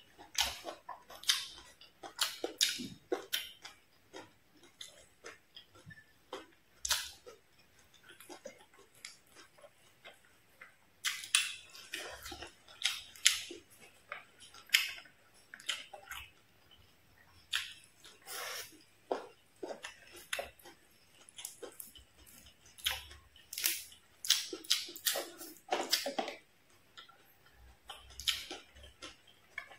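Close-miked chewing and wet lip-smacking of someone eating soft stir-fried fish and noodles, in irregular clusters of short smacks and clicks with brief quiet gaps between.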